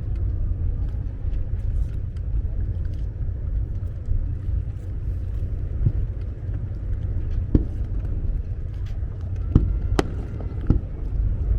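Fireworks going off over the water: a continuous low rumble with scattered sharp bangs, more of them in the second half, and the loudest about ten seconds in.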